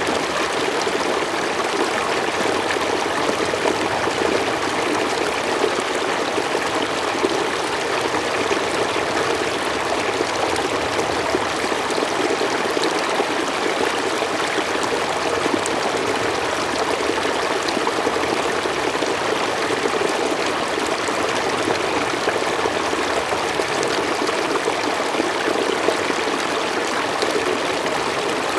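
Mountain stream flowing steadily over rocks, a constant rush of running water with light splashing and trickling.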